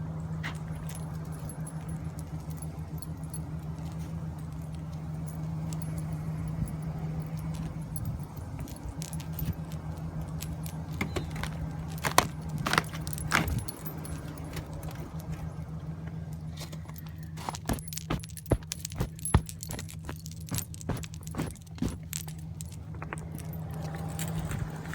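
Buick 3800 V6 engine idling steadily after a cold start. Sharp clicks and rattles come over it, a cluster about halfway through and many more in the last third.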